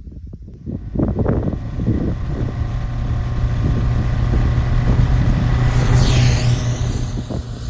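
Exhaust of a Honda CB750F's inline-four engine through a Moriwaki aftermarket muffler, running unevenly at first and then, from about a second in, holding a louder, steady engine speed that eases off near the end.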